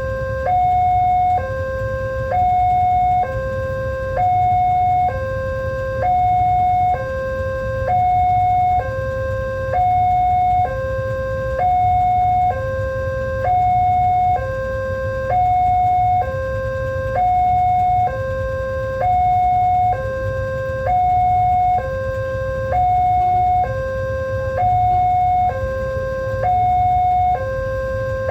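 Indonesian railway level-crossing warning alarm sounding its electronic two-tone signal: a higher and a lower tone alternating, each held about a second, repeating steadily over a low steady rumble.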